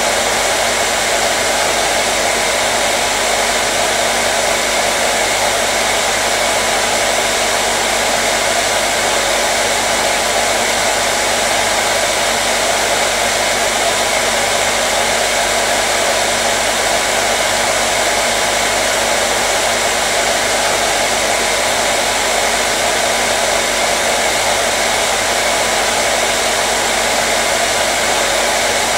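Electric hair dryer running continuously: a steady, even rush of blown air with a low motor hum underneath.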